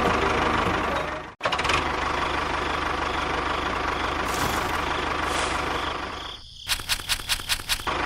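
An engine-like motor running steadily with a low pulsing. It cuts out briefly after about a second and a half, then dips again near the end, where a rapid series of sharp knocks follows, about five a second.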